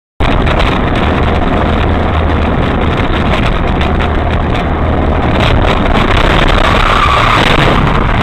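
A vehicle's steady engine and road noise, loud and unbroken, with a low hum and scattered clicks, cutting in abruptly just after the start.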